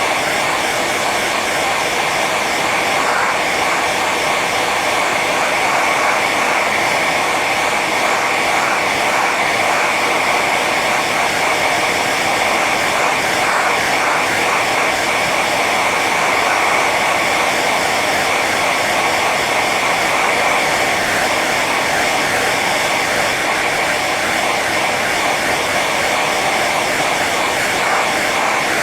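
Hair dryer running steadily on its high setting: a constant rush of blown air over a motor whine.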